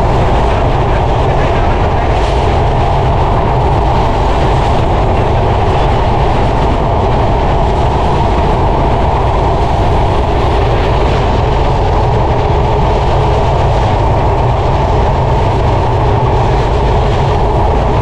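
Sundarban Express passenger train running at speed, heard from an open carriage door: a steady, loud noise of wheels on the track.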